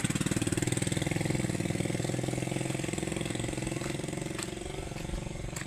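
A motor engine running steadily with a fast regular pulse, slowly fading away, with a few sharp ticks near the end.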